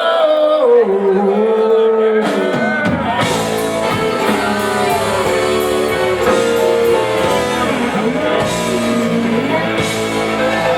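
Live southern rock band playing. For the first couple of seconds a sustained, bending melody line sounds alone with no bass, then drums, bass and guitars come in together about three seconds in and carry on.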